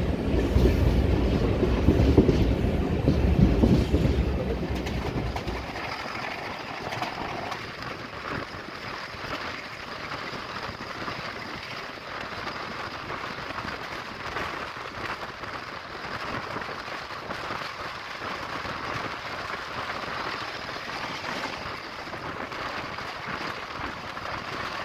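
Passenger train coach running along the track, heard from an open door: steady wheel-on-rail running noise with faint clattering over the rail joints, and wind. A deeper, louder rumble fills the first five or six seconds, while the train runs alongside a long container freight train. After that the sound settles lower and steadier.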